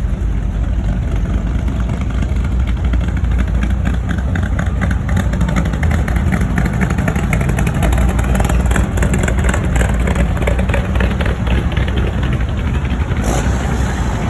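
Car engines and exhausts running loudly close by, a low steady rumble, with a stretch of rapid, even exhaust pulses in the middle.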